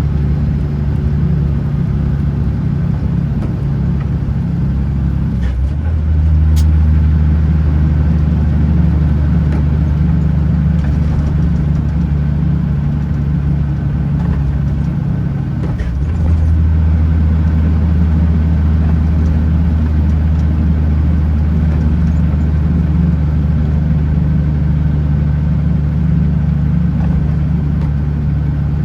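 Kenworth T909 truck's diesel engine running steadily on the road, a low drone. About five and a half seconds in and again about sixteen seconds in, the note dips briefly and then comes back a little louder and deeper.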